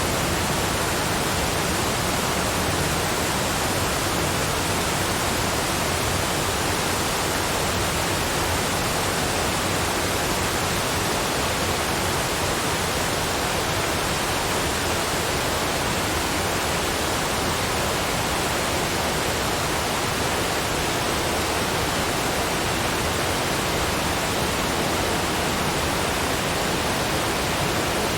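Waterfall rushing: a steady, unchanging hiss of falling water with no distinct splashes or breaks.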